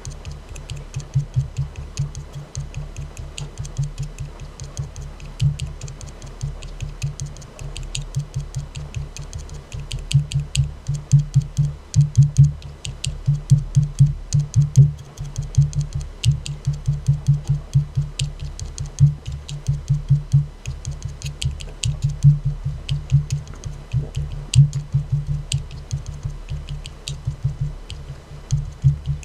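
Rapid tapping on an aluminium soda can, several taps a second in uneven flurries, each tap a sharp click over a low hollow resonance.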